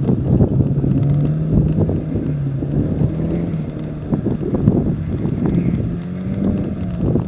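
Nissan Silvia rally car's engine driven hard on a dirt stage, its note stepping up and down several times as it changes gear and comes on and off the throttle, with wind buffeting the microphone.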